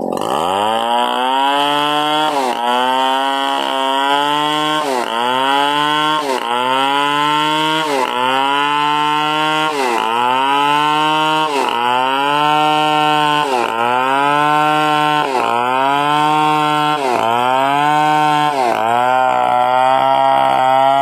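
Stihl 070 two-stroke chainsaw engine running hard under load, sawing coconut wood. Its pitch drops sharply and climbs back again about every two seconds as the cut loads it.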